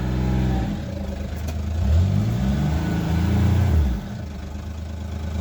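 Small off-road vehicle engine revving hard under load while trying to pull a stuck trailer out of mud. Its pitch rises and falls a few times, then it drops back toward idle about four seconds in.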